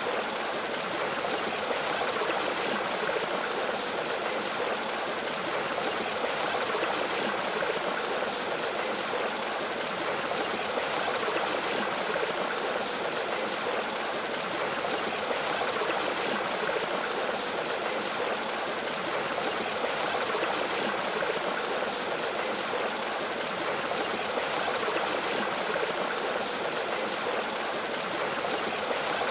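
Mountain stream flowing over rocks and a small waterfall, a steady, even rush of water.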